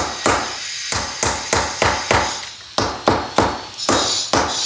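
Repeated sharp taps on a brick being set into a bed of ready-mixed fireplace mortar, knocking it down level, about three a second.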